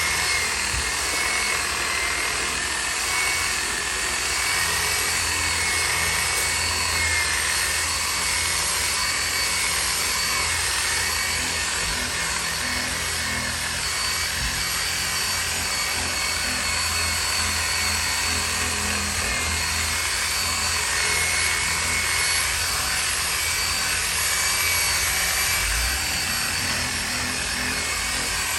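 A power tool running steadily: a continuous hissing whir with a faint high whine, unbroken throughout.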